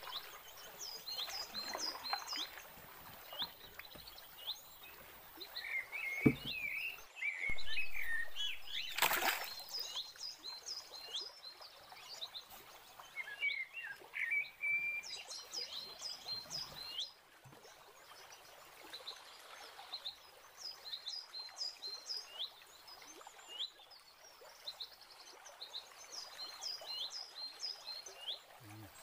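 Birds calling: runs of short, high, falling chirps repeated in clusters, with a lower warbling call twice. There is one brief louder burst of noise about nine seconds in.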